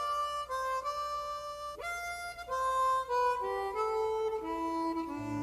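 Harmonica playing a slow melody of held notes, one note at a time, stepping down in pitch near the end.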